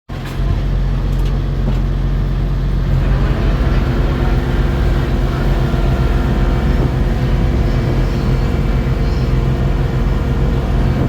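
Engine of a Friendship Boat water taxi running steadily, a loud low drone heard from the stern seats.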